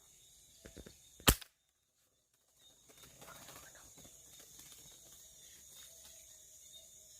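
A single sharp air-rifle shot a little over a second in, preceded by a few faint clicks. Steady chirring of night insects continues around it, with some rustling after the shot.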